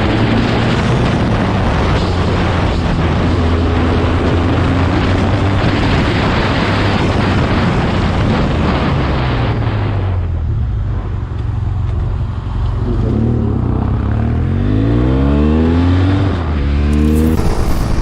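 Motorcycle riding at speed with heavy wind rush over the engine. About ten seconds in the wind noise falls away as it slows, then the engine revs up again with rising pitch several times as it accelerates through the gears.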